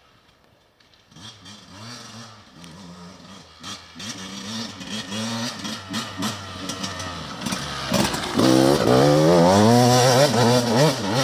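Enduro motorcycle engine coming into hearing about a second in and growing louder as it approaches, the revs rising and falling quickly with the throttle, loudest near the end.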